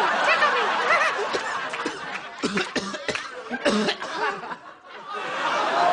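Many people laughing together, with short sharp outbursts a little after the middle.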